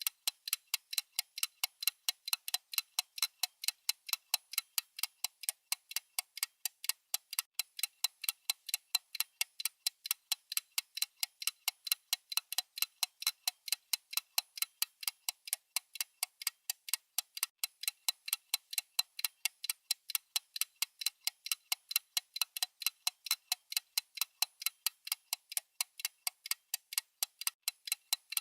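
Clock-style ticking sound effect: crisp, high ticks at a quick, perfectly even pace, several a second, with no change.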